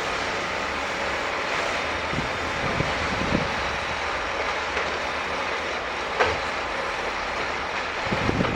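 Scania G440 timber truck running steadily while timber is unloaded, with a constant low engine hum under heavy mechanical noise. A sharp knock comes about six seconds in, and a few low thumps come near the end.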